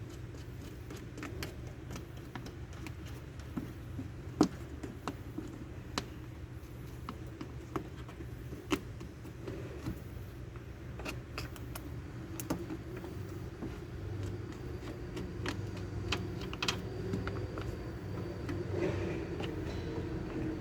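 Irregular metallic clicks and taps, like hand tools and small metal parts being handled, over a steady low hum. The loudest click comes about four seconds in.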